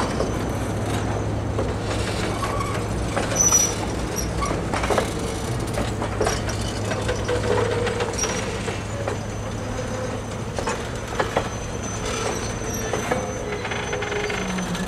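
Railroad passenger cars rolling slowly past, their wheels knocking irregularly over rail joints, with brief squeals and a steady low rumble underneath.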